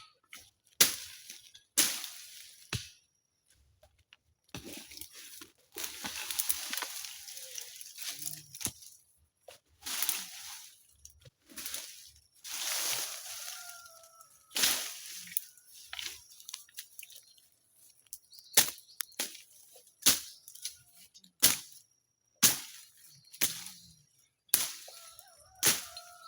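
A hand tool struck repeatedly into the ground and brush while land is cleared, irregular sharp blows about a second apart, some followed by a few seconds of rustling and scraping.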